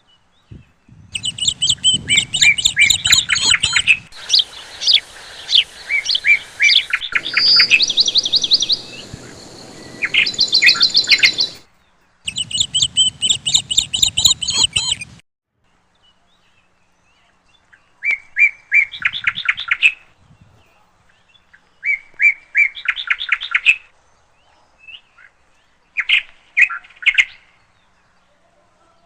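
Small birds chirping in rapid trills of short, high, repeated notes. The first half is dense and changes abruptly at several hard cuts; after that the trills come in separate bursts of one to two seconds with quiet gaps between them.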